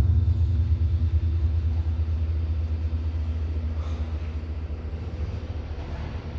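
Low rumble of a train passing through the station, slowly fading away.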